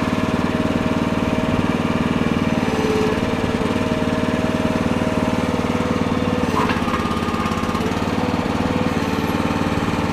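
Small gasoline engine of a towable Red Rock mini backhoe running steadily, with brief changes in its tone about three seconds and six and a half seconds in.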